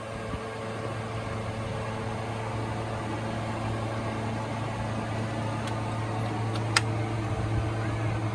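Toyota 1ZZ 1.8-litre four-cylinder engine running steadily with a low, even hum, getting slightly louder in the first second or so. A single sharp click is heard about seven seconds in.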